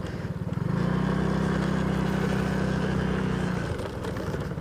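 Motorcycle engine picking up about a second in, running steadily under throttle, then easing off shortly before the end.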